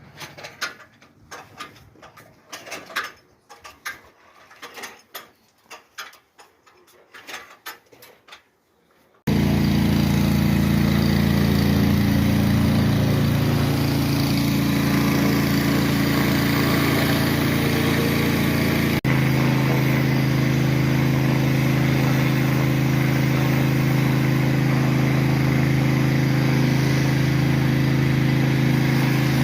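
Scattered light clicks and knocks, then about nine seconds in a machine's motor cuts in abruptly and runs loud and steady, with a slight change in its note about halfway through.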